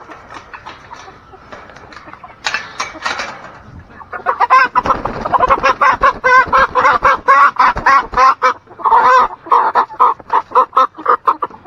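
Chicken clucking and squawking: a few scattered calls at first, then from about four seconds in a loud, rapid run of short repeated squawks.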